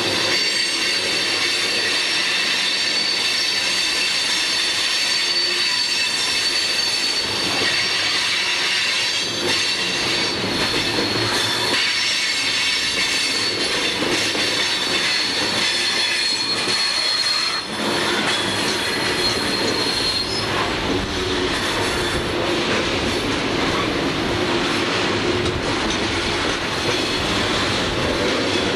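CSX freight train's open-top hopper cars rolling past close by: a steady rumble and clatter of steel wheels on the rails, with a high-pitched squeal of wheels on the curve. The squeal is strongest through the first two-thirds, and the low rumble grows heavier later on.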